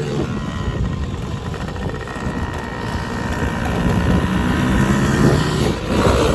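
Manual-shift quad (ATV) engine running under throttle, its pitch climbing over a few seconds as it revs up, then briefly dropping off near the end.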